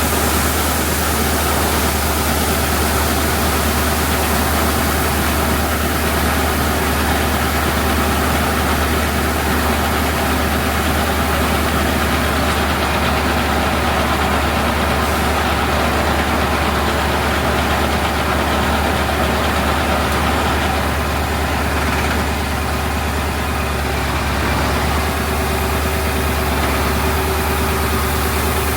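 Heavy diesel engine of harvest machinery running steadily, a constant deep drone with a wide rushing noise over it, dipping slightly a little after two-thirds of the way through.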